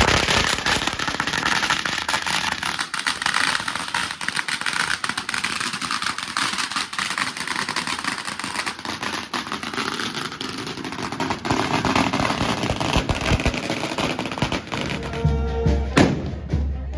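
A long string of firecrackers crackling in a rapid, dense volley for most of the stretch. Near the end the crackle dies down and music with a deep bass comes in, with one sharp bang.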